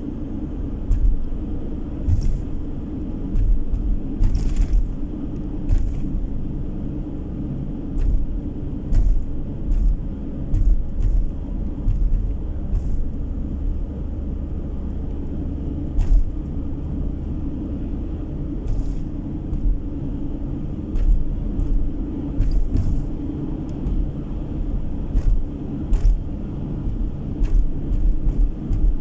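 A car driving along a road, heard from inside the cabin: a steady low rumble of road and engine noise, with short low thumps now and then.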